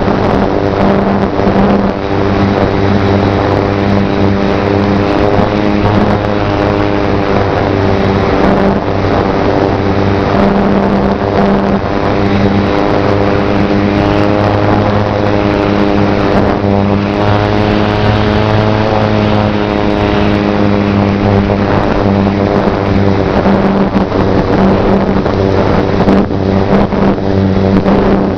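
Brushless electric motor and propeller of a Slow Stick RC plane running steadily, a droning hum over wind noise. Its pitch wavers briefly a little past halfway.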